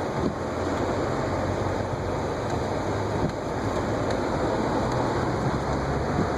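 Steady rush of road and engine noise inside a car driving on snow-covered streets, with a low engine hum underneath.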